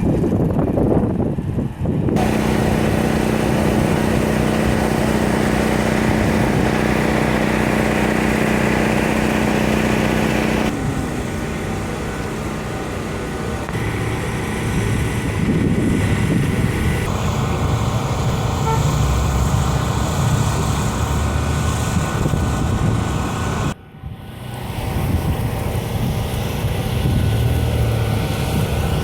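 Car engines running in a series of short clips, the first a steady idle with a clear pitch, the later ones rougher and changing.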